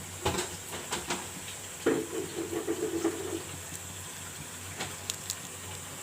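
Several clinks and knocks of a utensil against a cooking pot, with a rough scraping tone for about a second and a half about two seconds in, over a steady hiss.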